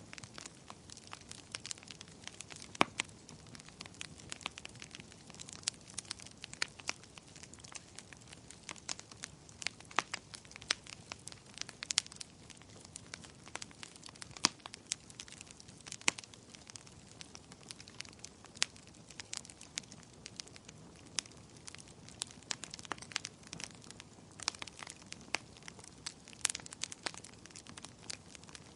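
Wood fire crackling in a fireplace: irregular sharp snaps and pops over a faint steady hiss.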